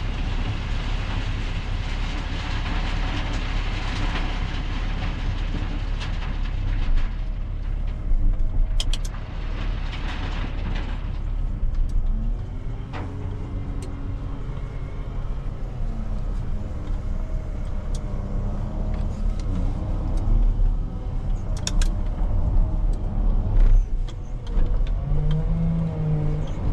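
Heavy loading machine's diesel engine running steadily while working gravel, its pitch rising and falling in the second half, with several sharp clanks.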